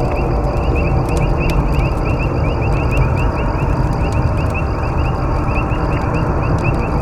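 Campfire burning with a loud low rush and scattered sharp crackles and pops, over a rapid, even chirping of about five chirps a second.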